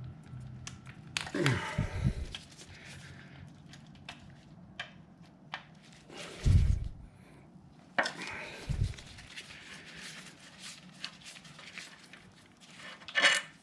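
Hand tools and parts being handled during motorcycle disassembly: scattered clinks and knocks with rustling, and a few louder thumps and scrapes about a second and a half in, at six and a half seconds, around eight seconds and near the end.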